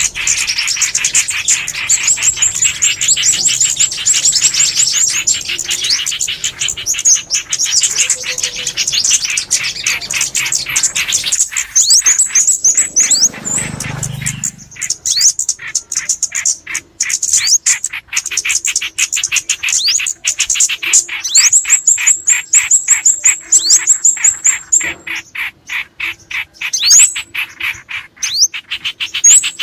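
Recorded mix of small songbird calls, bulbuls and sunbirds, as a lure track: dense, rapid, high chirping with short rising whistles. A brief low rumble comes about 13 seconds in.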